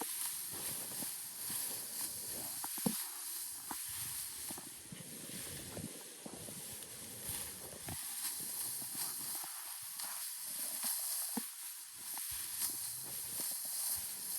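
Rice stalks rustling and being cut by hand with a sickle, with scattered short snaps, over a steady high-pitched hiss.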